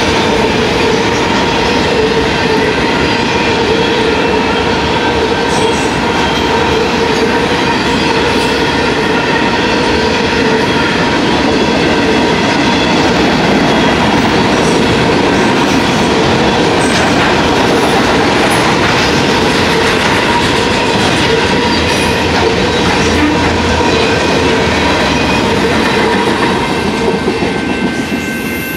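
Freight train of autorack cars rolling past at a grade crossing, with the steady rumble and clatter of steel wheels on the rails. The sound falls away near the end as the last car clears the crossing.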